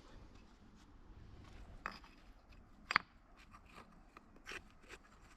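Irregular clicks and scrapes of stones being handled and set down while a garden drain is being made, with one sharp knock about three seconds in.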